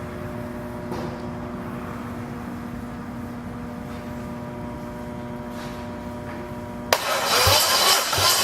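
Starter motor cranking a Toyota 1JZ twin-turbo inline-six engine for a compression test: a steady whine over a low rumble for about seven seconds. Near the end it stops abruptly and loud music with a beat comes in.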